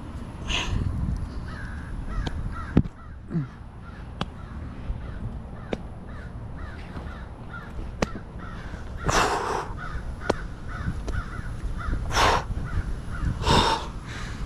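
Crows cawing: four harsh caws, one near the start and three in the last third, over a low rumble, with scattered sharp clicks and knocks.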